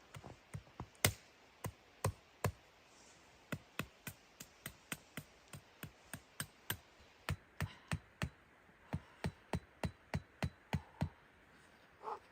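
A run of sharp knocks, about three a second with uneven pauses, then a brief scraping rustle near the end.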